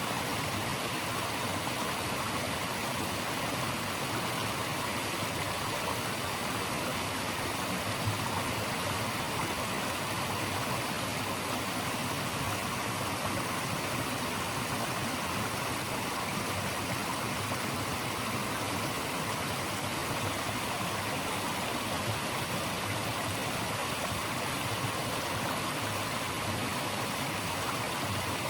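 Running water rushing in a steady, unchanging hiss, the natural white noise of a stream or falls.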